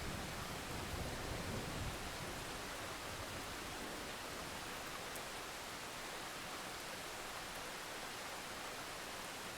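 Steady rain falling as an even hiss, with the low tail of a thunder rumble dying away in the first two seconds.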